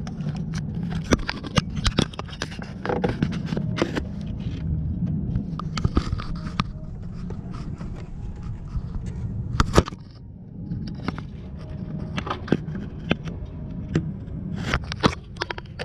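Irregular clicks, knocks and short scrapes over a steady low hum, with the sharpest click just before ten seconds in.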